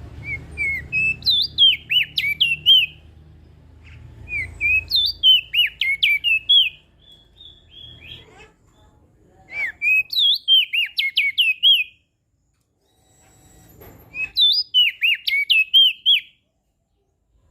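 Opior jambul singing: four phrases of quick, down-slurred chirping notes, each lasting two to three seconds with short pauses between.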